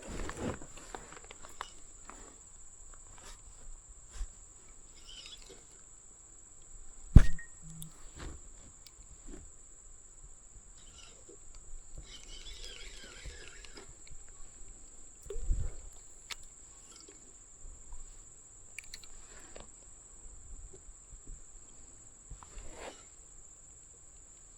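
Scattered knocks, clicks and rattles of fishing gear and a kayak being handled while a hooked bass is landed. A sharp knock comes about seven seconds in and a duller thump near the middle, with a short rasping stretch between them. A steady high thin whine runs under it all.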